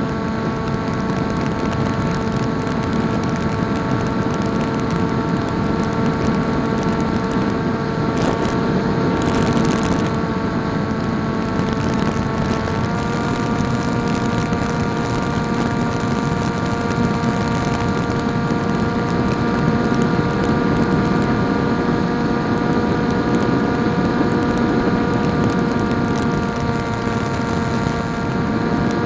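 Electric motor and propeller of a PopWing RC flying wing in flight, a steady whine over rushing air noise, as picked up by the onboard FPV setup. The pitch steps up slightly about thirteen seconds in.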